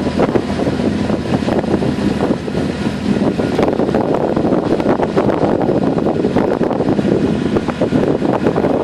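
Water taxi's engine running steadily, with wind buffeting the microphone.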